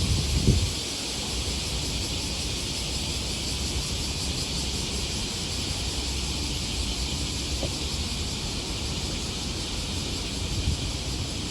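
Cicadas buzzing in a steady, unbroken chorus, over a low rumble and a short thump about half a second in.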